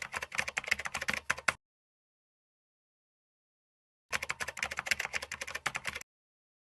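Rapid computer-keyboard typing clicks in two bursts of about two seconds each: one at the start and one from about four seconds in. Each burst starts and stops abruptly, with dead silence in the gap.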